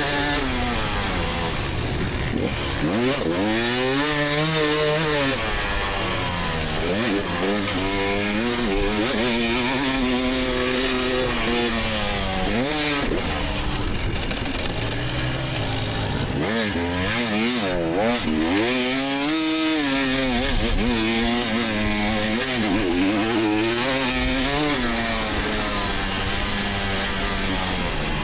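Single-cylinder two-stroke engine of a 2024 GasGas EX300 dirt bike, revving up and dropping off over and over as the throttle is worked hard through corners and straights.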